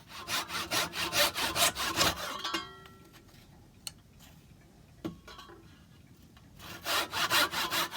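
Hand saw cutting a small piece of limewood in quick, short strokes, about six a second, in two bouts: one at the start and one near the end, with a pause and a couple of light knocks between them.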